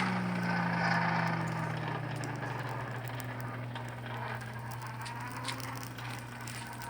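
A steady mechanical hum whose pitch sags over the first two seconds, with scattered light crackles over it.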